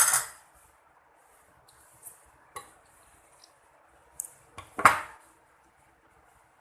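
Cutlery clinking and scraping against a plate while eating: a few separate sharp knocks, the loudest at the start and about five seconds in, with quieter taps between.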